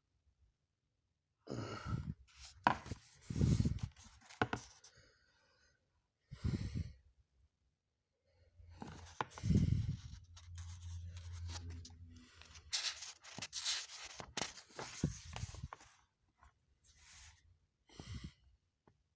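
Irregular bursts of scratchy, paper-like rustling and tearing noise, broken by short dead silences, with a low hum underneath for a few seconds in the middle.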